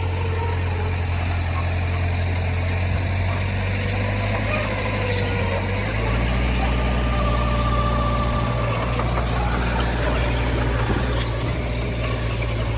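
Heavy diesel earthmoving machinery engine running steadily; about six seconds in its note shifts and it grows slightly louder, with a faint wavering whine above it.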